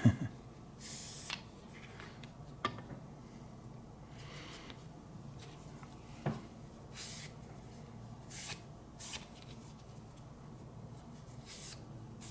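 Short, scattered swishes of a cloth rubbing over sharpening stones, with a few light clicks and a sharper knock right at the start as the stones are handled.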